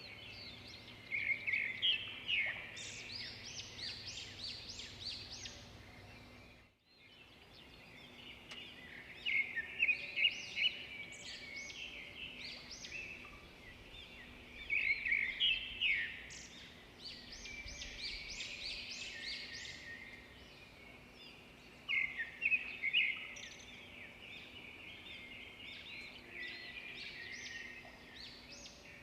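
Songbirds chirping and singing, with louder bursts of quick, repeated notes every several seconds. The sound drops out briefly about a quarter of the way in.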